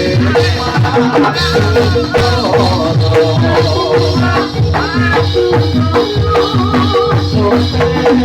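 Javanese gamelan music for a jathilan dance, played loud and amplified. Dense, steady kendang drumming and rattling percussion run under held metallophone tones and a wavering melodic line.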